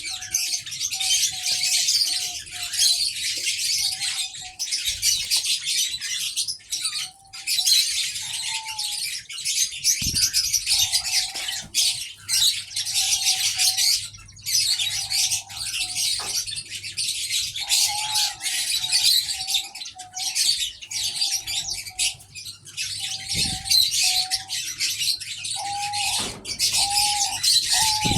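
Dense, continuous chirping of many aviary birds, with short, low coos repeated throughout from the diamond doves. The coos come closer together and louder near the end.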